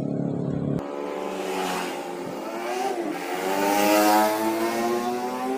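A motor running, its pitch climbing steadily with a brief dip about three seconds in, over a hiss; the sound changes abruptly about a second in.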